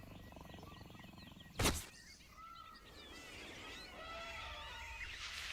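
Birds chirping and twittering, many short gliding calls, with one sharp crack about a second and a half in.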